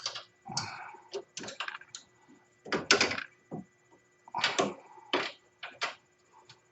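Irregular metallic clanks and clicks of hand tools on steel as suspension bolts are tightened, some knocks ringing briefly.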